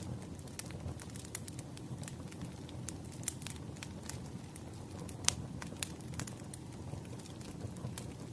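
Firewood burning with irregular sharp crackles and pops over a steady low rumble of flame, one louder pop about five seconds in.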